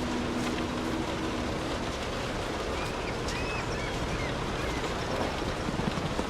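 Steady rain with scattered drop hits. A low, two-note steady hum fades out about a second and a half in, and a few short high chirps come around three seconds in.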